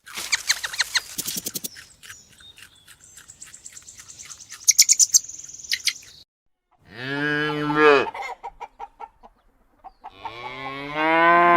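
Birds chirping and trilling in quick high notes, then two drawn-out calls from a farm animal about a second long each, with scattered short clucks between them.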